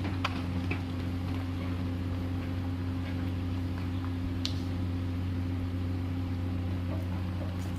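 Komatsu PC210LC excavator's diesel engine running at a steady speed, an even hum with a few faint clicks.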